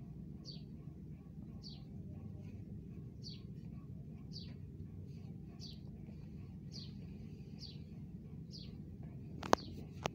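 A small bird chirping over and over, one short, high, falling chirp about every second, over a steady low hum. Two sharp clicks near the end.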